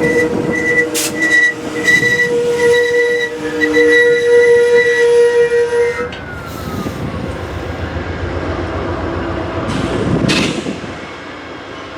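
Train passing, with a steady high-pitched tone for about the first six seconds that stops suddenly, then a lower rumble with a few sharp clicks.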